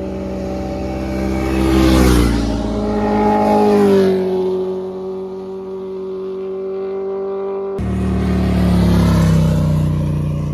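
Sport motorcycles accelerating hard past, one after another, each engine note falling in pitch as the bike goes by, loudest about two and four seconds in. The sound switches abruptly a little after halfway, and another bike passes near the end.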